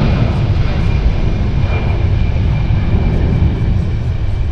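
Jet airliner engines running with a loud, steady rumble and a thin high whine.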